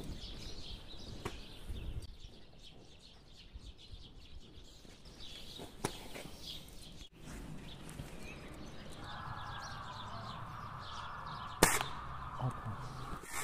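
Small birds chirping on and off over outdoor background noise, with a few sharp clicks; the loudest, a single sharp crack, comes about a second and a half before the end, and a steady background hiss sets in about nine seconds in.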